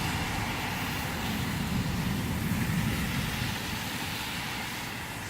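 Road traffic passing on a wet road: a steady tyre hiss that slowly fades, with a low engine rumble swelling and dying away about halfway through.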